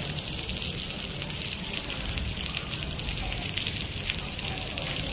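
Heavy rain falling in a steady downpour: a dense hiss of drops pattering on hard surfaces, with a low rumble underneath.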